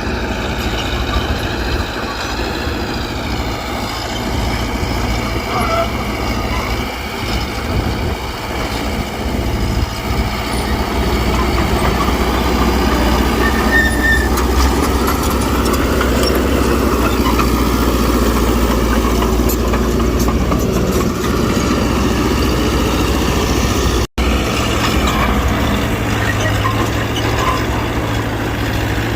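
Mitsubishi BD2G bulldozer's diesel engine running steadily under working load, its pitch slowly rising and falling as it works. The sound cuts out for an instant near the end.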